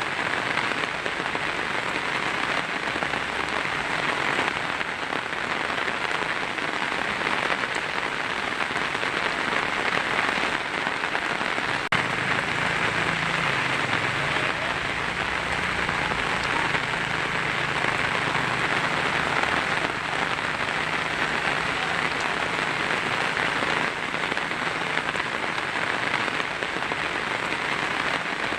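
Heavy rain pattering steadily on a tin roof.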